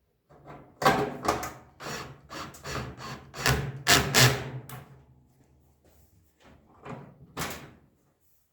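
Toaster oven's thin sheet-metal shell knocking and rattling as it is handled and worked into place: a quick run of clanks and knocks for the first five seconds, then two more knocks near the end.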